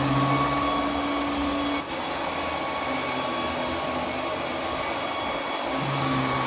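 Roborock Q10V+ robot vacuum running, a steady suction fan whine over a noisy rush. A lower hum drops out under two seconds in and comes back near the end.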